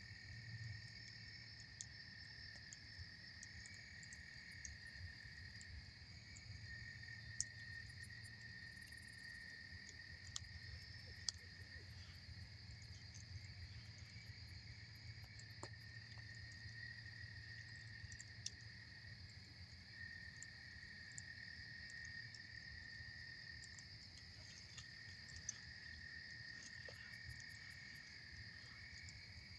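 Campfire crackling with a handful of sharp pops, over a steady chorus of insects.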